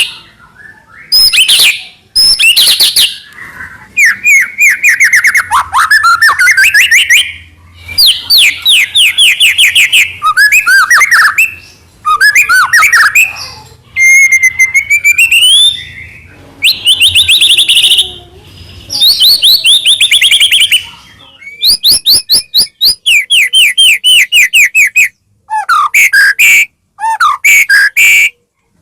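White-rumped shama (murai batu) singing loudly in full song: a run of varied phrases, each a rapid series of repeated whistled notes or sweeping rising and falling whistles, broken by short pauses.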